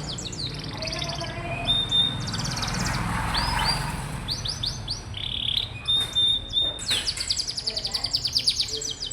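Domestic canary singing: rapid high trills mixed with short, clear whistled notes, ending in a long, fast trill.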